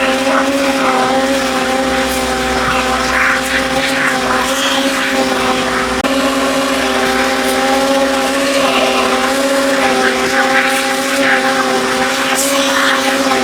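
An electric motor running steadily at a constant whining pitch, with irregular scratchy rubbing noises over it.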